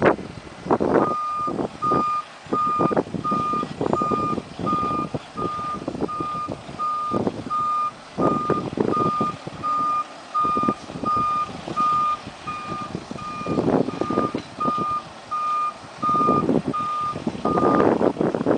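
Hi-rail truck's backup alarm beeping steadily, about one and a half beeps a second, as the truck reverses, with engine rumble and irregular knocks underneath. The beeping stops near the end.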